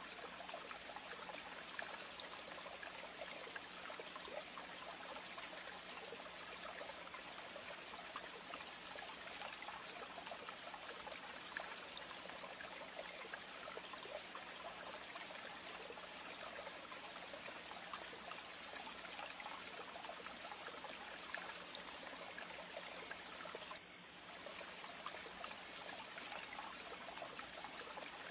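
Steady trickling water with many small drips, over a faint low electrical hum. The sound briefly drops out near the end.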